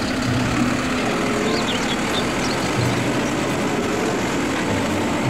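Automated side-loader garbage truck's engine running steadily as its hydraulic arm lifts and tips a wheeled trash cart.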